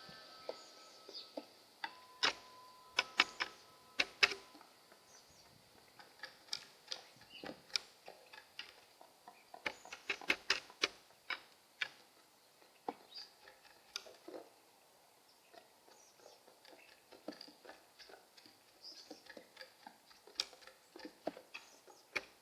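Pigeons making irregular sharp clicks and taps in quick clusters, with quieter stretches between.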